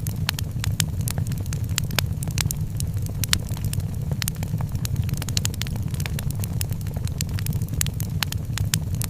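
Wood fire burning in a fireplace: dense, irregular crackles and sharp pops, several a second, over a steady low rumble.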